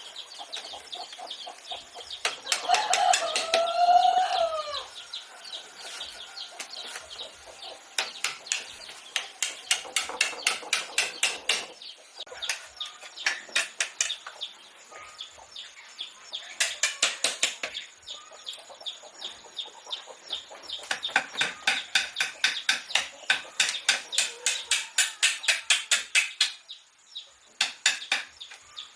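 A chicken call with a falling glide about three seconds in, over long runs of rapid sharp taps, several a second, that stop and start.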